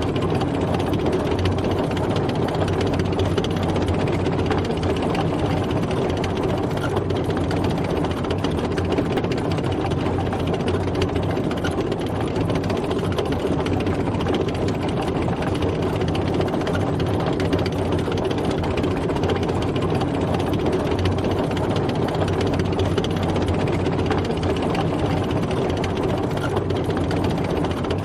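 Tank driving, its heavy engine running steadily and unchanging.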